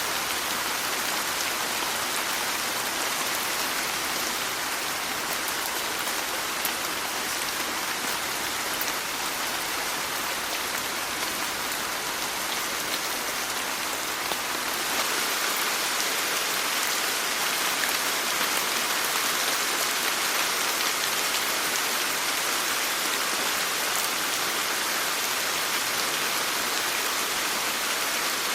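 Steady rain falling: an even hiss with scattered fine drop ticks, a little louder from about halfway through.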